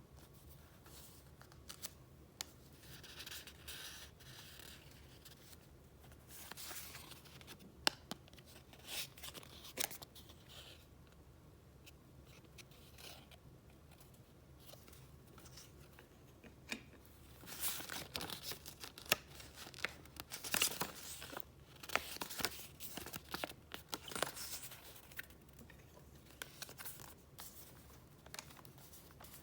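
Paper being handled: sheets rustling, crinkling and swishing as they are flipped and moved, with small sharp clicks and taps. The handling is busiest in short spells, most of all in the latter half.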